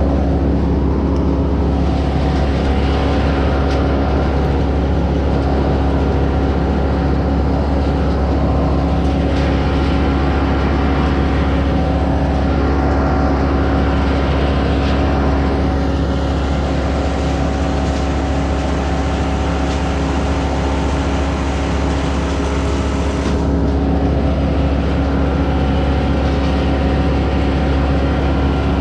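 An engine running steadily at constant speed, with a deep rumble and a steady hum.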